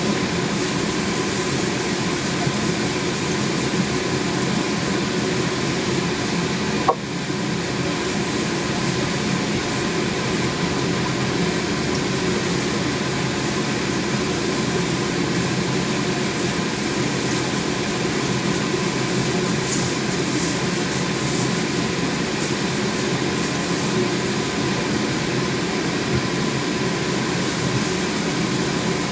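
Steady machine hum with several constant tones that never changes in level, broken only by a single sharp click about seven seconds in.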